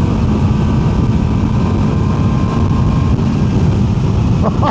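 QJMotor SRK 921 RR's inline-four engine running under load at a steady pitch on the move, with heavy wind rush. Near the end its pitch climbs sharply in short quick steps as the engine is revved up.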